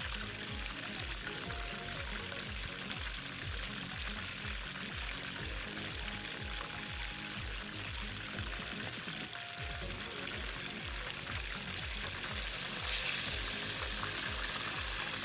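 Chicken wings frying in about half an inch of hot oil in a pan, a steady sizzle, with background music with a steady beat underneath. The sizzle grows louder a little after two thirds of the way through.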